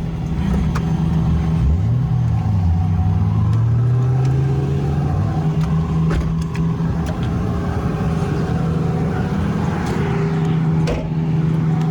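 Car engines running steadily, with a second engine's pitch rising about two seconds in and dropping away by about five seconds.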